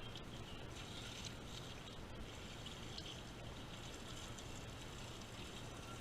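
Faint, steady water pouring and trickling as the outdoor air conditioner unit is rinsed, with a low hum underneath.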